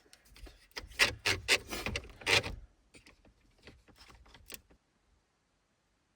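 Objects being handled and rummaged through: a quick run of clicks, knocks and rubbing, busiest in the first half, dying away about three-quarters of the way through.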